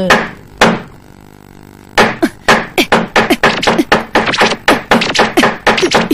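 Cartoon sound effect of knocking: two sharp knocks, then, after a short pause, a fast steady run of knocks, about four a second, each with a short falling note.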